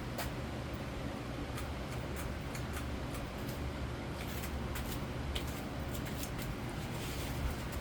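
1992 Canarm BDF42 ceiling fan running on high speed: a steady motor hum and air noise with scattered light, irregular clicks, while the fan wobbles badly.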